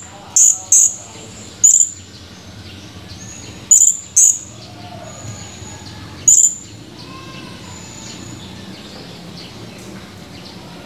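Blue-crowned hanging parrot (serindit) giving short, sharp, high-pitched calls: six single notes, two close together at the start, one a little later, a quick pair about four seconds in and a last one past six seconds, with faint thin whistles between.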